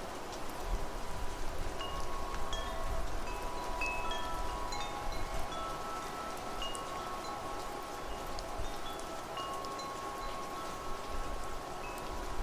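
Wind chimes ringing over steady rain. The chime notes start about two seconds in, with long-ringing tones and scattered higher strikes, and wind rumbles low underneath.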